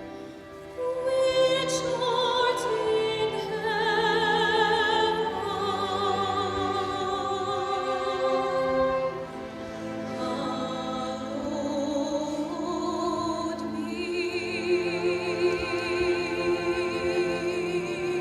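A soprano soloist singing a sacred piece in operatic style with wide vibrato on long held notes, over sustained instrumental accompaniment; the voice comes in about a second in.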